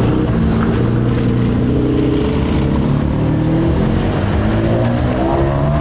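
Car engine running loud and steady, its pitch climbing near the end as it revs.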